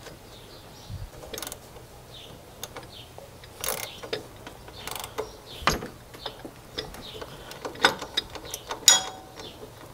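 Irregular metallic clicks and clanks of hand tools and parts being handled while fitting pulleys and brackets to a Corvette LT4 V8 engine, with the loudest knock near the end.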